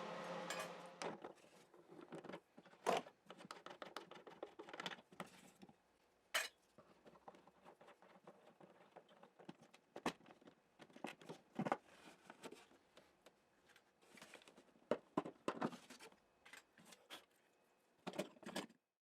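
Scattered clicks and clatters of small hard tools being handled and set down on a workbench. A steady hum stops about a second in.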